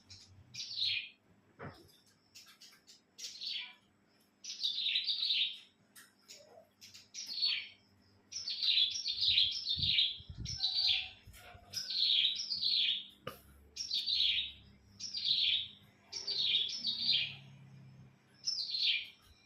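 A pet cilang songbird singing a run of short, high chirps, each sweeping downward in pitch. They come singly or in quick runs of two or three, with a second or so between runs.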